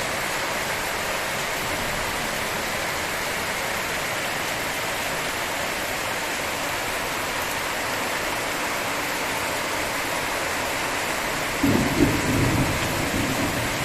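Steady heavy rain falling, an even hiss. A brief low rumble comes about twelve seconds in.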